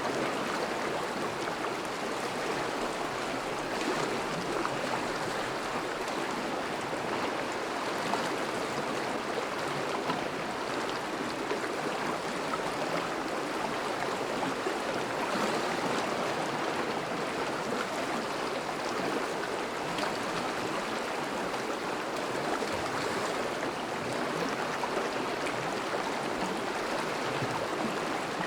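Thawing river flowing steadily past snowy banks, a continuous rush and gurgle of moving water.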